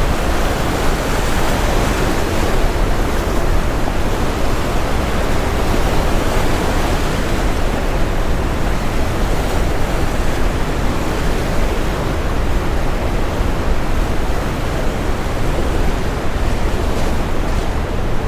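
Brown noise mixed with ocean waves breaking on a shore: a dense, steady noise weighted toward the low end.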